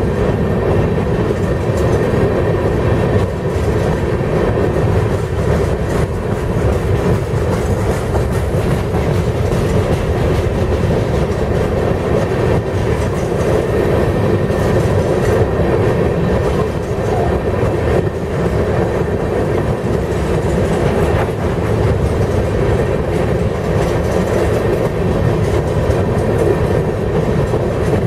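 Hopper cars of a rock train rolling past: a steady rumble and clatter of steel wheels on the rails that does not let up.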